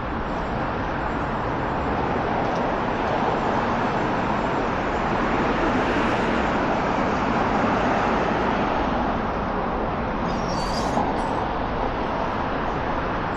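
Busy city-street traffic: a steady roar of passing cars and other vehicles that swells in the middle and eases toward the end. A brief high-pitched squeak comes about ten and a half seconds in.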